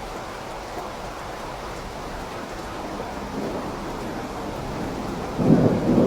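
Steady rain falling, with a roll of thunder that builds from about halfway through and peaks as a loud low rumble near the end.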